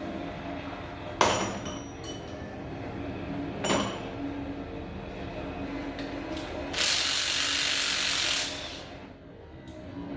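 Tools working on an engine: two sharp metallic clanks, then a steady hiss lasting about a second and a half, over a low background hum.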